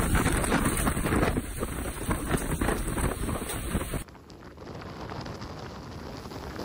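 Storm noise: wind and heavy rain lashing the microphone, with many small crackling hits. About four seconds in it cuts off suddenly and gives way to a quieter hiss of the same kind.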